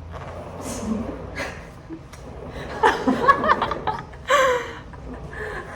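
Women chuckling and laughing in short bursts, with a few brief bits of speech.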